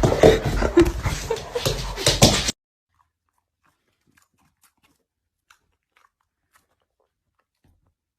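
A dog chewing and crunching on something, a dense run of crackling bites that cuts off abruptly about two and a half seconds in. After that, near silence with a few faint ticks.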